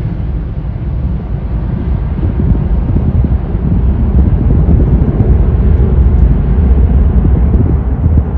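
Jet airliner's engines at takeoff power: a deep rumble that swells over the first few seconds while the higher hiss fades away.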